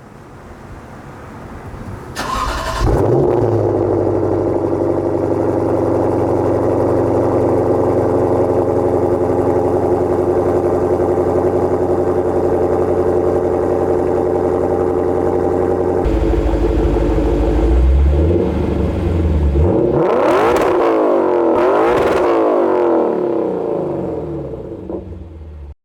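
Lexus RC-F's 5.0-litre V8 cold-starting: a brief crank and catch about two seconds in, then a loud, steady fast idle through the exhaust. Later it settles lower and is revved a few times before fading out.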